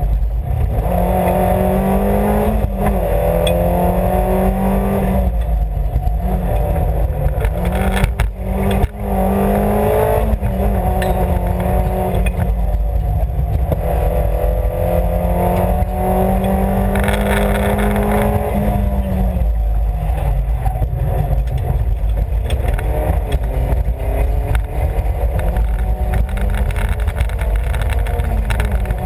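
Rally car engine running hard, heard from inside the cabin, with road and wind rumble. Its pitch climbs repeatedly and drops again as it works through the gears, with two brief dips in level about eight and nine seconds in.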